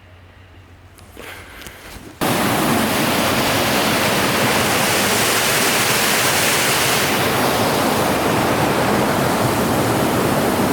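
A loud, steady rushing noise that cuts in abruptly about two seconds in, after a quiet start.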